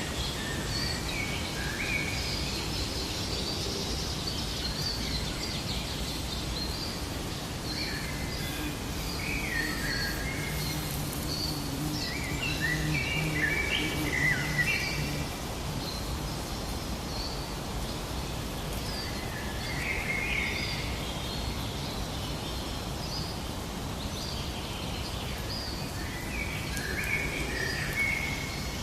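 Several small birds chirping and trilling in short, scattered calls over a steady natural background hiss, with a faint low hum for a few seconds in the middle.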